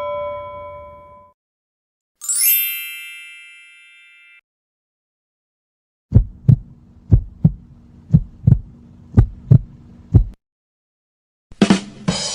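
A string of separate sound effects: a ringing ding fading out, then a bright shimmering chime that dies away, then a heartbeat sound effect with about five lub-dub double thumps, one pair a second. A new, noisy sound effect cuts in near the end.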